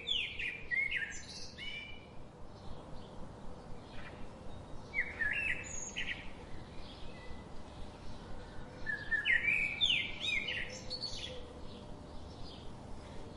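Songbirds chirping: a loud burst of quick, rising chirps every four to five seconds, with fainter chirps from other birds in between.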